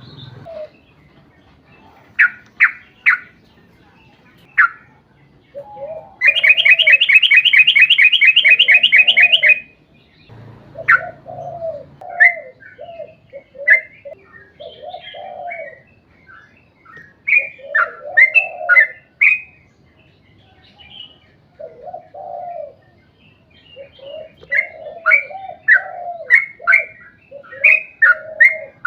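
Yellow-vented bulbul (trucukan) singing: bubbly low phrases mixed with sharp high chirps. About six seconds in comes a loud, rapid trill of evenly repeated notes lasting about three seconds, the long 'ropel' roll.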